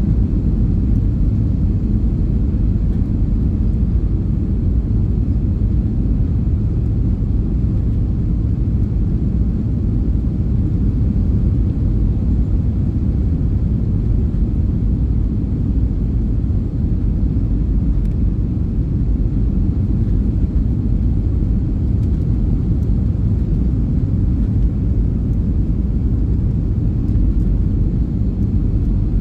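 Airplane coming in to land: a steady, even low rumble of engines and rushing air with no break or change.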